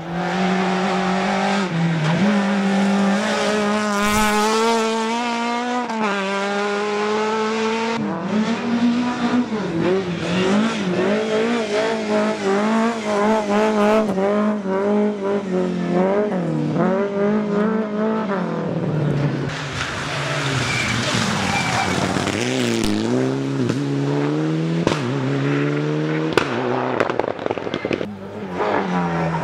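Rally cars at full throttle on a special stage, engines held at high revs and then revving up and down through gear changes and braking. A short sharp knock about four seconds in, and some tyre squeal.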